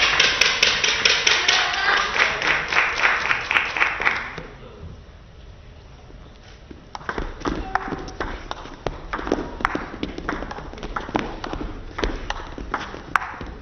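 Rapid rhythmic crowd clapping that dies away after about four seconds, then after a short lull the quick irregular clicks of a table tennis rally: the celluloid-type plastic ball struck by paddles and bouncing on the table.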